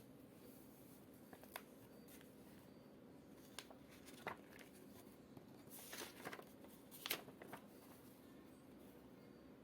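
Near-silent small room with a handful of soft, short clicks and rustles of objects being handled, the loudest cluster a little past the middle.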